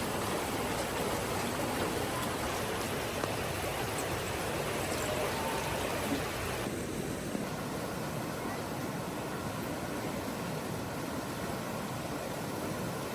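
A steady rushing noise with no rhythm; its brighter, hissier part drops away about halfway through.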